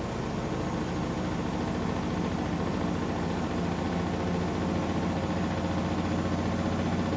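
Hotpoint washing machine running a wash cycle: a steady motor hum that grows slightly louder toward the end.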